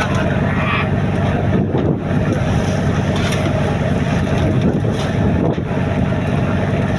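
Fishing boat's engine running steadily, a dense low rumble, with wind on the microphone.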